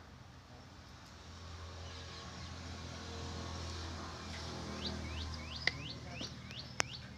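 A bird calling in a quick series of short rising chirps, about three a second, starting about five seconds in, over a low steady hum that swells in the first seconds; a couple of sharp clicks.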